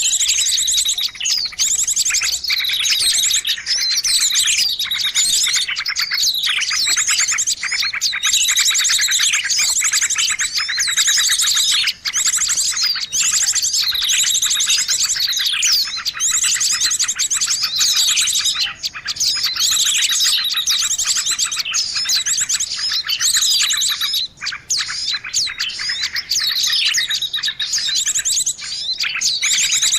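Dense, loud chorus of many small birds chirping and chattering at once, with quick overlapping twitters and down-slurred notes that keep on without a break. It is a 'noisy' bird-lure recording (suara pikat) meant to draw in all kinds of birds.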